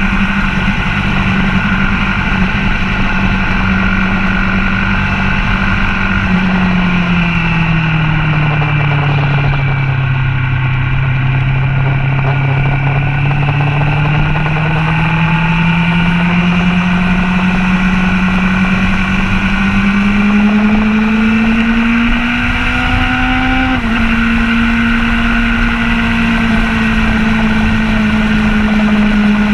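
Motorcycle engine running hard on a race track, heard from a camera on the bike. The engine note holds steady, sinks as the bike slows, then climbs steadily under throttle and drops suddenly at a gear change about three quarters of the way through, holding steady after.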